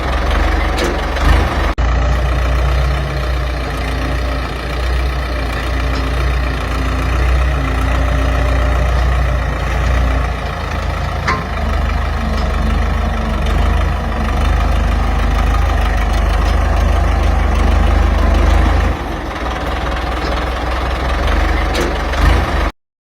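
Ford 6600 tractor's three-cylinder diesel engine running steadily with a heavy low rumble; the sound cuts off suddenly near the end.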